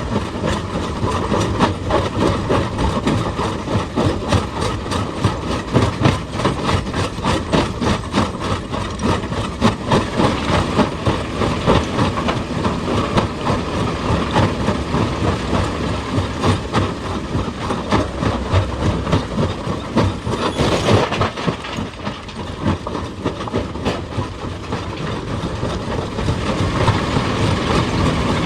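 Excavator working rock: a heavy engine running under load with a dense, rapid clatter of steel on stone, and a brief burst of noise about twenty seconds in.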